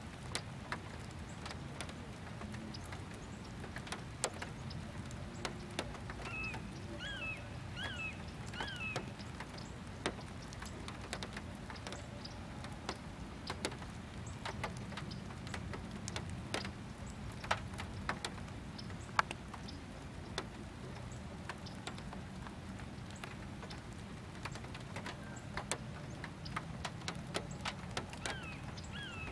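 Light rain: scattered drops tapping and pattering in irregular sharp ticks over a low steady hum. A bird calls a few short rising-and-falling notes about seven seconds in and again near the end.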